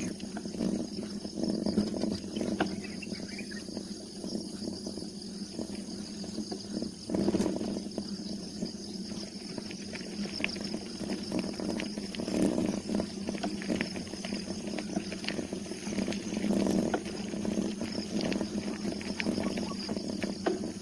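Bicycle riding over a road: a running rattle of small knocks and a low rumble from the bike, with a steady high hiss behind it.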